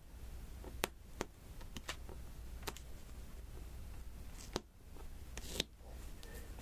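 Diamond painting: small resin drills picked up with the applicator pen and tapped down onto the sticky canvas, making about six light, sharp clicks at irregular intervals.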